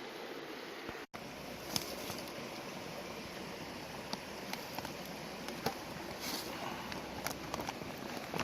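Steady rush of flowing river water, with a few scattered small clicks and taps over it.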